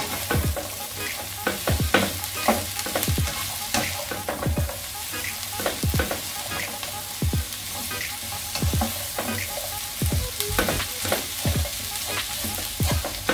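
Carrot and onion strips sizzling in a frying pan as they are stir-fried, with a slotted spatula repeatedly scraping and knocking against the pan.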